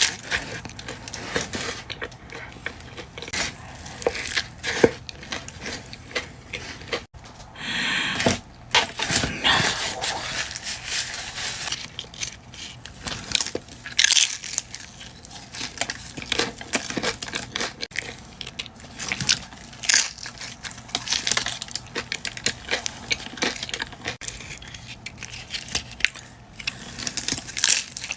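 Close-miked eating sounds: irregular crunching and chewing of fast food, mixed with paper wrapper or bag crinkling and tearing.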